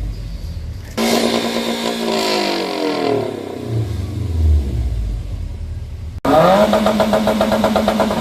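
A car engine free-revved hard through a loud performance exhaust. About a second in it jumps to a high, held rev that then falls away. After a sudden break near the end, it jumps to a high held rev again.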